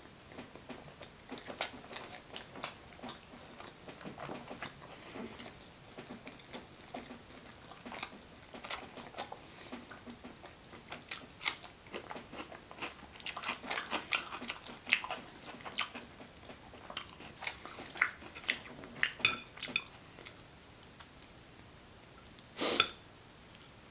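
A person chewing and biting food, with wet, crunchy clicks. Near the end there is one short, louder noise.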